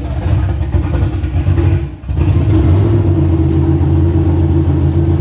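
A car engine running steadily at idle, loud and low, with a brief drop about two seconds in.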